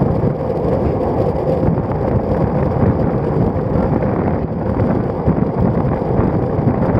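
Steady wind rushing over a handlebar-mounted action camera's microphone on a moving road bicycle, a constant loud rumble with no breaks.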